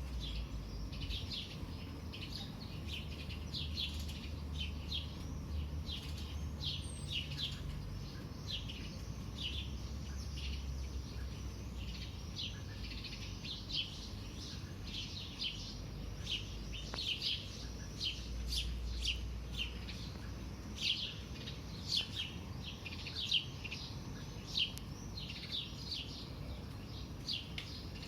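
Morning birdsong: birds chirping steadily, many short high chirps in quick succession, over a low steady rumble.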